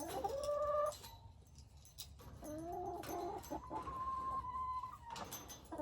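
Domestic hens clucking and calling: a call in the first second, a run of clucks about halfway, then one long drawn-out call, with a few light taps near the end.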